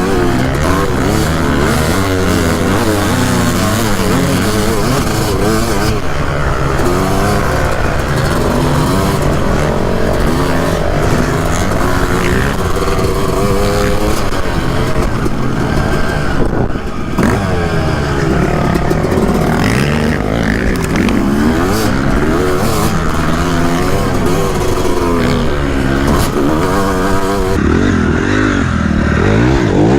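Suzuki RM250 two-stroke motocross bike ridden hard on a dirt track: the engine revs climb and fall repeatedly as the throttle is opened and shut through the gears, with a brief cut in the sound about halfway through.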